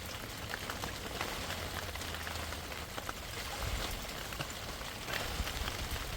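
Steady rain falling, with many small drop hits.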